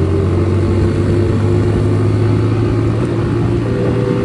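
TVS Apache RTR 200 4V motorcycle's single-cylinder engine running at a steady pitch while under way.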